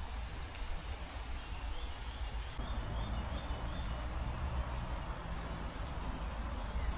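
Heavy rain hissing steadily, with wind rumbling on the microphone and footsteps on wet ground. About two and a half seconds in, the rain sound turns abruptly fuller.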